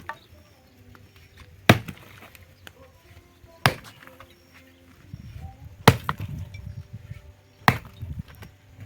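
An axe chopping wood: four sharp blows about two seconds apart.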